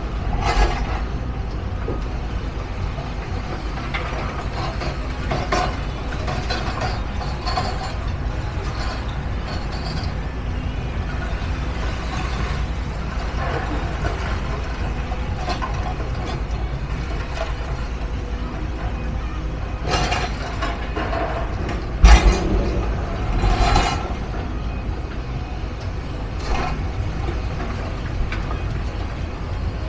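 Steady low rumble of vehicles and machinery with scattered knocks and clanks, and one loud bang about 22 seconds in.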